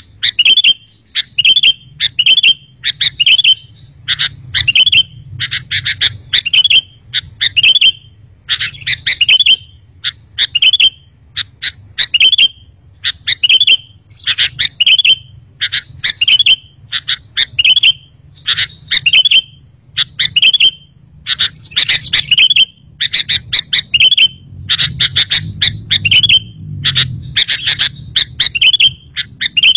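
Sooty-headed bulbul song: short, bright chirping phrases repeated about once a second, played as a lure call for bulbuls, over a faint low hum.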